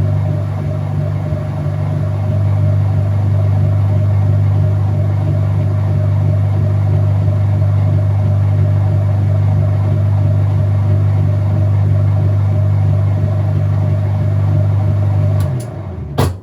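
Whirlpool top-load washing machine in its final spin: a loud, steady low motor drone that drops away near the end and stops with a single clunk.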